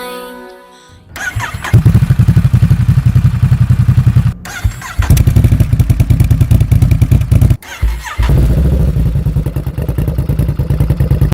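Ducati Monster 950's 937 cc L-twin running loudly through a Termignoni exhaust with a rapid pulsing beat. It comes in three takes that cut off abruptly about four and seven and a half seconds in. Soft music fades out just before the engine comes in.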